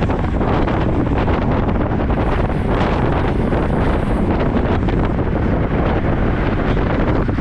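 Wind buffeting the microphone of a camera riding on a moving road bike: a loud, steady rushing rumble.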